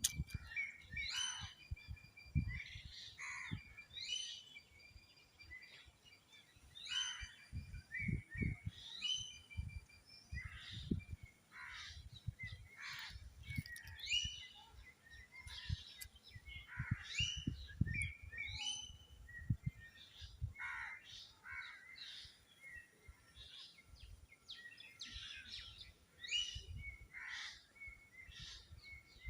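Several birds calling and chirping in short, repeated notes that come and go throughout, with irregular low thuds underneath.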